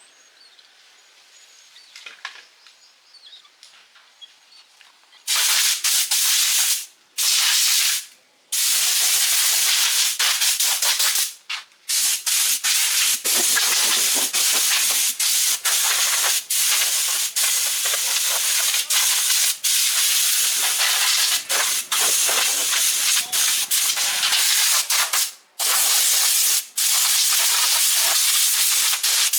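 A compressed-air spray or blast gun hissing in long, loud blasts that start about five seconds in. The hiss cuts off briefly a few times as the trigger is let go. Before it there are only faint clicks.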